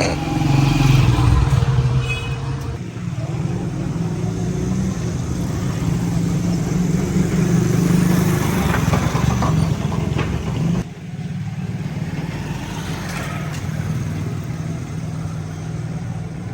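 A motor vehicle's engine running steadily as a low hum, which drops suddenly in level about eleven seconds in and continues more quietly.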